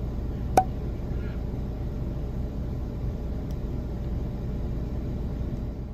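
Car engine idling, a steady low rumble heard from inside the cabin. A single sharp click sounds about half a second in.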